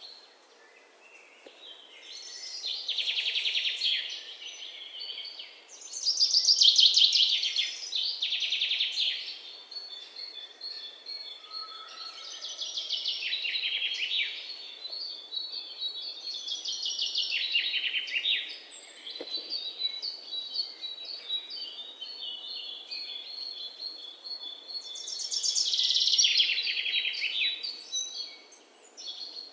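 Songbirds singing: loud, rapid trilled phrases of a second or two each, coming every few seconds, with strings of thin, high repeated notes between them.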